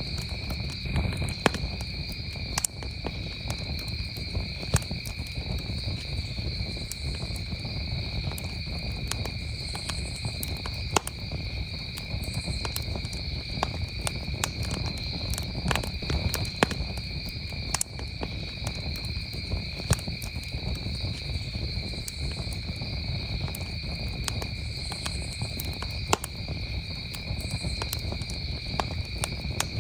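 Campfire crackling, with sharp pops at irregular moments, over a steady high chorus of crickets trilling.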